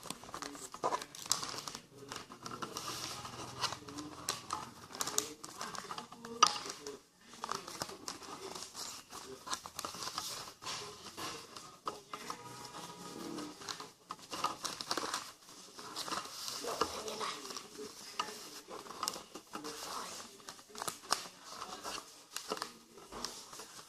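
Sheet of paper being handled, folded and creased by hand, with irregular rustling and crinkling throughout.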